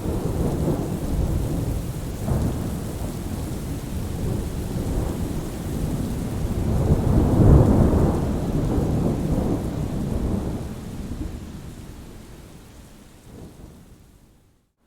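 Thunderstorm ambience: rain hiss under a long, low rolling rumble of thunder that swells to its loudest about halfway through, then dies away steadily to silence just before the end.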